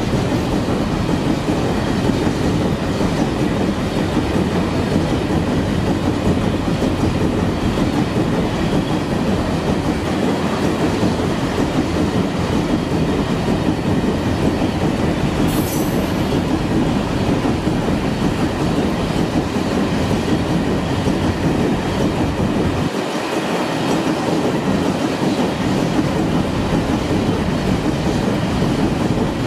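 Loaded ore train of open gondola wagons rolling past close by at speed: a steady rumble and clatter of wheels on the rails. A brief high screech comes about halfway through.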